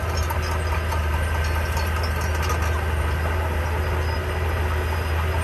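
Heavy diesel engine of construction machinery running steadily with a deep, even drone, with faint metallic clinks over it.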